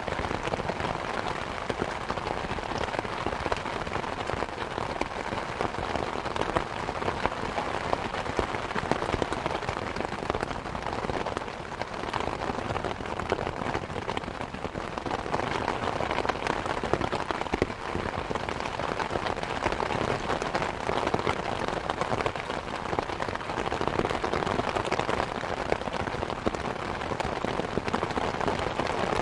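Steady rain pattering, mixed with the crackling of a wood fire in a fireplace, an even unbroken bed of sound with many fine pops and ticks.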